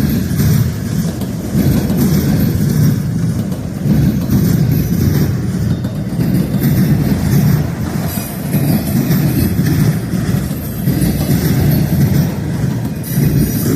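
Freight train rolling past, with a continuous low rumble of wheels on rail.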